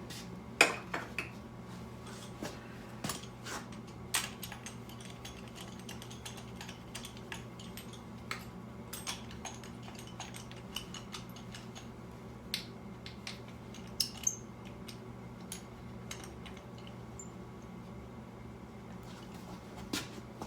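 Scattered metallic clinks and taps of hand tools working on a motorcycle engine while its spark plugs are being removed, over a steady low hum.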